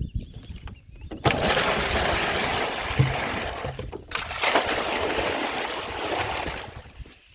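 Water pouring and splashing into an empty livestock water container to refill it. It starts about a second in, runs steadily with a brief break midway, and tapers off near the end.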